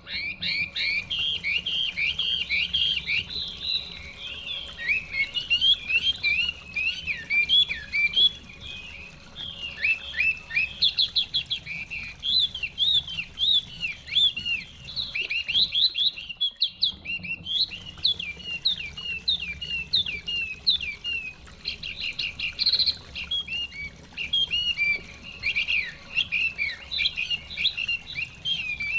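Hwamei (Chinese hwamei, họa mi) singing a dense, continuous run of quick whistles and chirps, with a faint low rumble beneath. Both break off briefly about sixteen seconds in.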